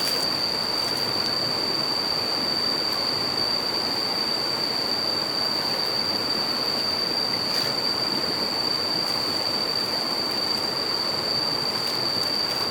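Steady rush of flowing water, with a continuous thin high whine over it.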